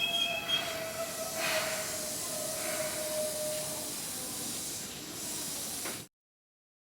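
Seibu 2000 series electric train running out of the station: a hiss of running noise with a thin tone that falls slightly and fades, and a brief high wheel squeal at the start. The sound cuts off suddenly about six seconds in.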